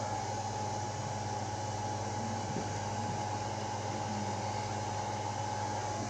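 Steady mechanical hum and hiss with a thin, steady whine over it; no firework bangs are heard.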